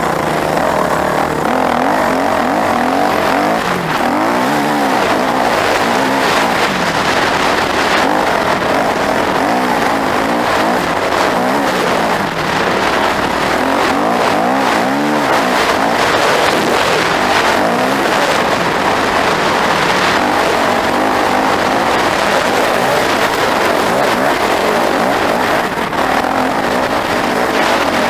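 Loud, continuous engine noise from racing vehicles, the pitch sweeping up and back down again and again as the engines rev.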